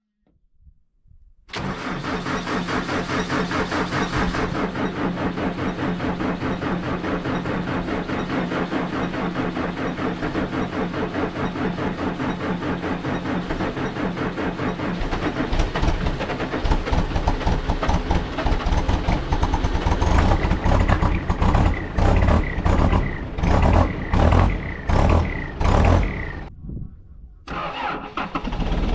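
Heavy-equipment diesel engine starting abruptly and running steadily. Later it rises and falls in level several times, cuts out briefly near the end, then picks up again.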